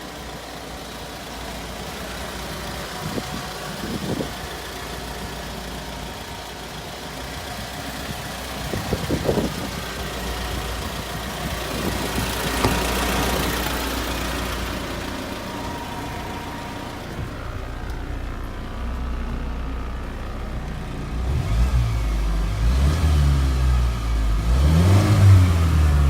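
Isuzu Elf truck's engine running steadily at idle, with a couple of brief knocks in the first half. Near the end it is revved up and down several times, louder than the idle.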